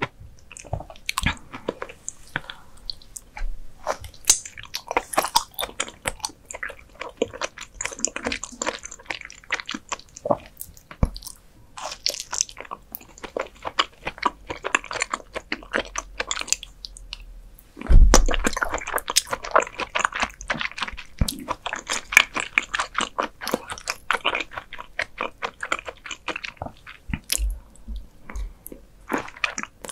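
Chewing and biting close to the microphone while eating raw beef spinal cord: a dense run of wet smacks and small clicks. A louder bite comes a little past halfway.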